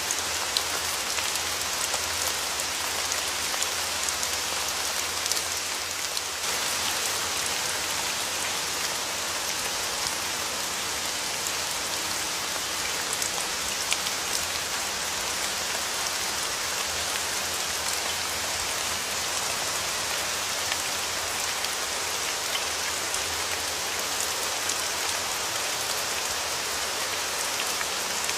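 Steady rain falling on a surface, an even hiss of many drops with occasional individual drop ticks standing out.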